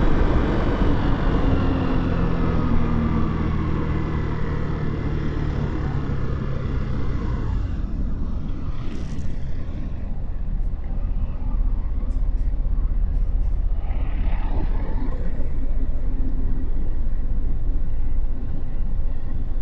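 Motorcycle engine slowing down, its note falling steadily over the first seven seconds or so, then running low with a rumble of wind and road noise on the microphone.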